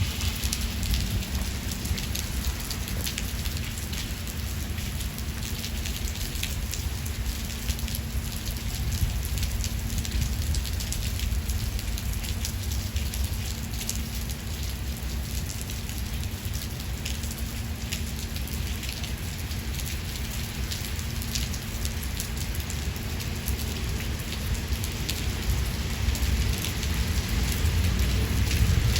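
Steady heavy rain, with many individual drops ticking over a continuous hiss, over a low rumble that swells near the end.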